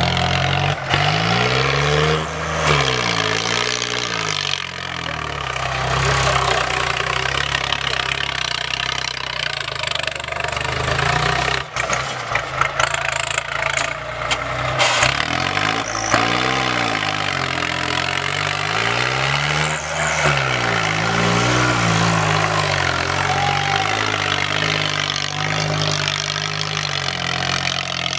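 Tractor diesel engine running hard, its pitch rising and falling again and again as it is revved up and down, over a steady rush of noise.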